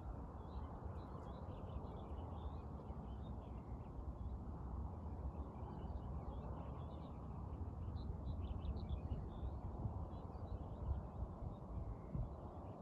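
Many small birds chirping faintly and steadily over a louder, steady low noise.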